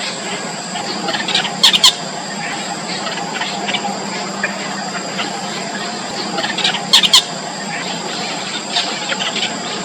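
Young nestlings, about four days old, making thin squealing begging calls over a steady background hum. Two short, much louder bursts of sharp calls come about two seconds and seven seconds in.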